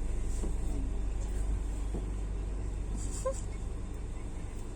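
Steady low rumble of a moving train running along the track.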